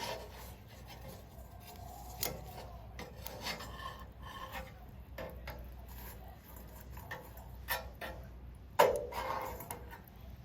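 Wood fire crackling in a homemade stainless-steel bowl fire pit, with scattered sharp cracks and rubbing, scraping sounds. One loud sharp knock comes about nine seconds in.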